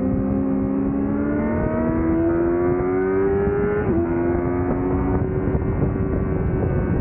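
2005 Yamaha YZF-R6's inline-four engine, fitted with a Laser aftermarket exhaust, pulling hard with its pitch climbing. Nearly four seconds in the pitch drops suddenly at an upshift, and the engine then holds a steady note under load, with wind noise underneath.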